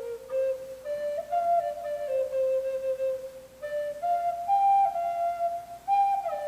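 Native American flute playing a slow solo melody of held notes that step up and down, with slight slides between some of them.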